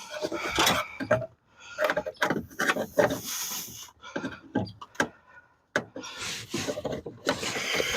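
Irregular clicks, scrapes and rattles of metal parts being handled under a car's dashboard as the headlight switch and dimmer rheostat assembly is worked loose.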